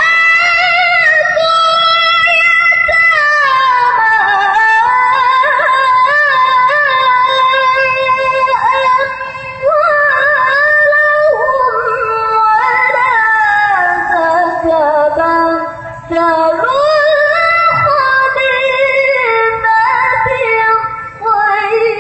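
Melodic Quran recitation (tilawah) by a single reciter: long held, ornamented notes that bend and waver in pitch, broken by short breath pauses twice.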